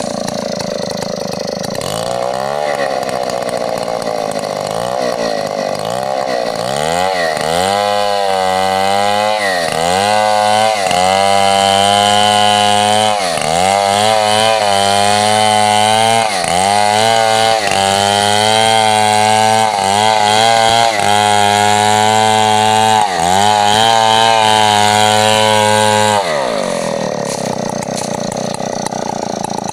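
Large Stihl 070 two-stroke chainsaw idling, then blipped up and down several times and held at high revs for about twenty seconds, with brief dips in pitch every few seconds, before it drops back to idle near the end.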